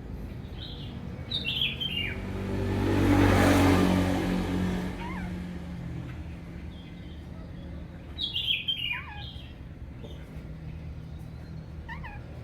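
Oriental magpie-robin calling: short clusters of quick falling chirps about a second in and again around eight seconds, with a few single chirps between. A passing motor vehicle swells and fades, loudest about three to four seconds in.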